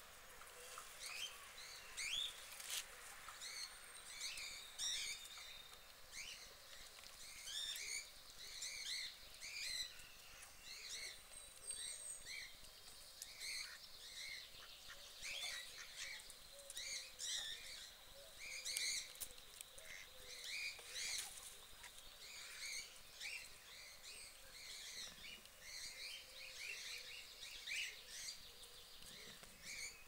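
Small birds chirping: many short, high chirps repeated in quick, irregular succession over a faint steady outdoor background.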